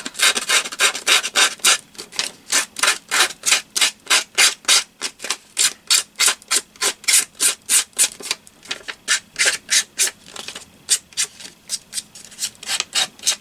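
Scissor blade scraped repeatedly along the edge of paper to distress it, in quick rhythmic scraping strokes at about three or four a second, pausing briefly near the end.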